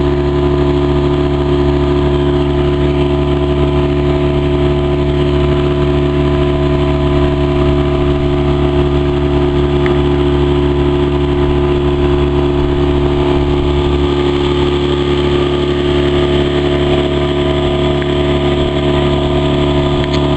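Hidea 15 hp outboard motor running at a steady speed, one unchanging engine note throughout.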